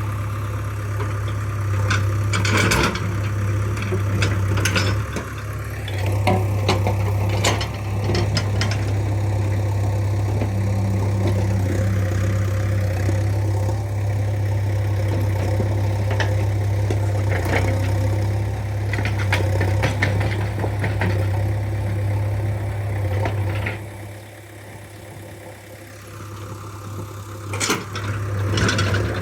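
JCB 3DX backhoe loader's diesel engine running steadily, with scattered knocks and rattles from the working machine. Near the end the engine briefly quietens, then picks up again.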